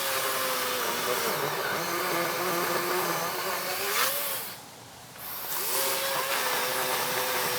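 Kobalt 24-volt battery electric chainsaw cutting through a tree trunk partly eaten by termites, its motor running with a steady whine. About four seconds in, the pitch sweeps up and the saw drops off for about a second, then it spins back up and keeps cutting.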